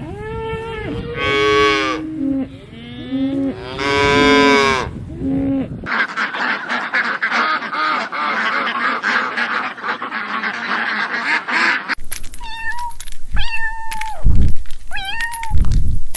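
Farm animal calls in three short clips. First come long, low calls, then a dense chorus of many animals at once, then a series of short, higher calls.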